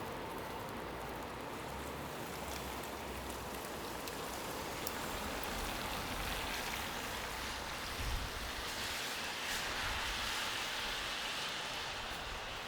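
Steady hiss of a wet, snowy street in falling snow, rising for a few seconds past the middle, with low rumbles about two-thirds of the way in.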